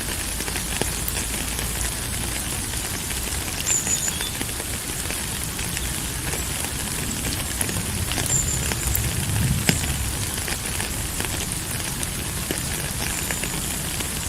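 Steady rain falling, an even hiss dense with small drop patters, with three brief high chirps spread through it.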